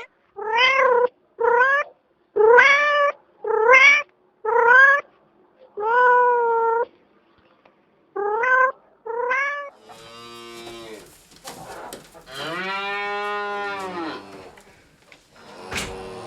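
A cat meowing again and again, about eight short meows rising and falling in pitch. Then, from about ten seconds in, a different animal gives longer, lower-pitched calls.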